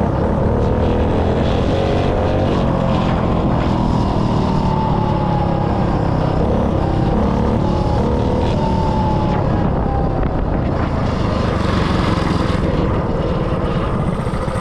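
196cc single-cylinder four-stroke mini bike engine running, its pitch rising and falling as it is revved and ridden.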